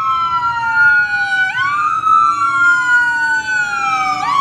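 Emergency vehicle sirens sounding loudly, two overlapping tones sweeping in pitch: one falls slowly and snaps back up about every two and a half seconds while the other rises slowly.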